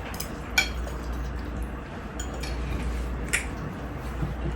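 Wet mouth sounds of eating saucy ravioli, with a few short sharp clicks, likely a fork against a bowl, the clearest about half a second in and near three and a half seconds, over a steady low hum.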